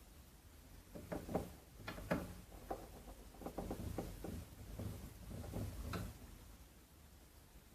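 Irregular light clicks and taps of hands handling and working on the plastic case of a Casio MT-18 keyboard, thickest between about one and six seconds in, over a faint low hum.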